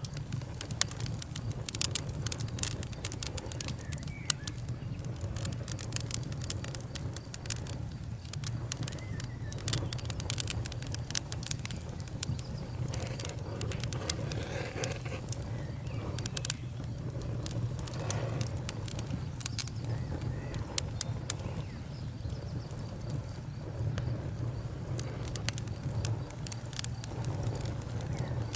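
Wood fire crackling, with frequent sharp irregular pops over a steady low rumble of the flames.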